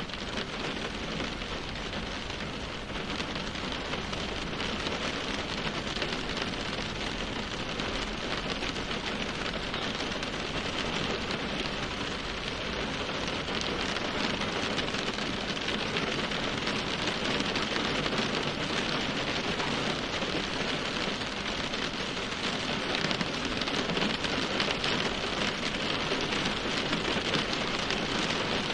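Steady rain falling, a dense even patter of drops without a break.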